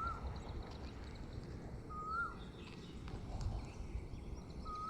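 Asian koel calling: a short note that rises and then drops, three times about two seconds apart, over a low background rumble with faint chirps of other birds.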